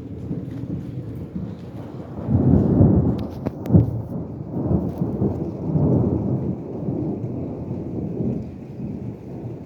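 Thunder rumbling with steady rain falling, the rumble swelling twice, with a sharp tap a little before four seconds in.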